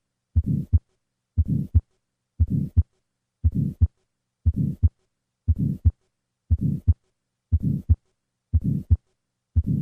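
Heart sounds at about one beat a second. Each beat is a short low rush between the first and second heart sounds, a systolic ejection murmur: the right ventricular outflow murmur of tetralogy of Fallot.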